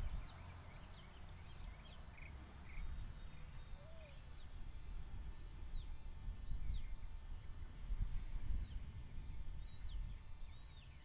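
A bird giving short, high, thin chirps over and over, about one or two a second, with wind rumbling on the microphone. A brief buzzy trill sounds about halfway through.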